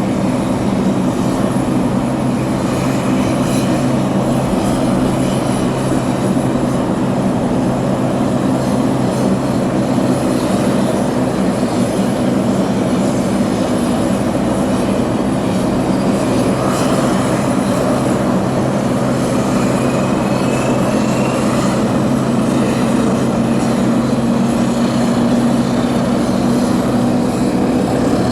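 Propeller aircraft engines running with a loud, steady drone.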